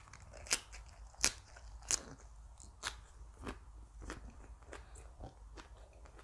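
Close-miked crunching as crisp raw vegetables are bitten and chewed. Three sharp, loud crunches come in the first two seconds, then softer crunches follow about every half second.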